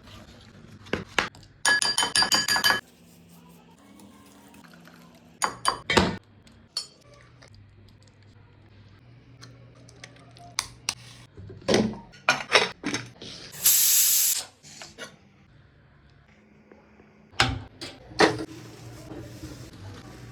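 Metal cookware and utensils clinking and knocking, with a ringing clatter about two seconds in and a short hiss around fourteen seconds in.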